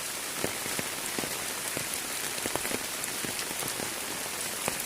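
Steady, heavy rain: a continuous hiss with many individual drops striking close by at irregular intervals.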